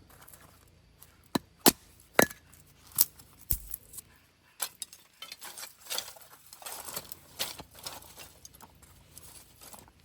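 Dry sticks being snapped and split: a few sharp cracks in the first few seconds, then a run of crackling and splintering.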